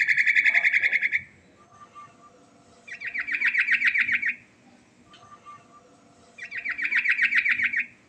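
Yellow-vented bulbul (trucukan) singing: three rapid, chattering trilled phrases about a second and a half each, a couple of seconds apart, the first already underway at the start.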